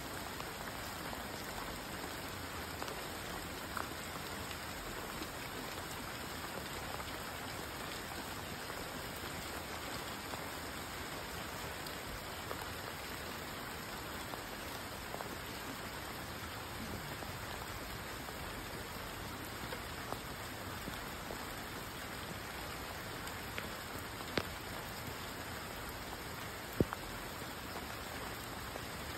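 Steady rain falling, an even hiss with a few sharper drop hits here and there, the loudest near the end.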